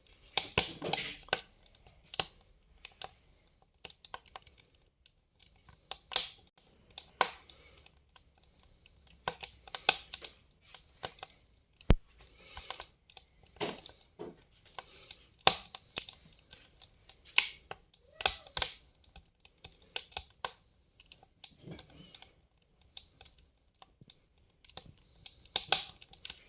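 Log fire crackling: irregular sharp pops and snaps from burning wood, some close together and some spaced out, over a faint hiss.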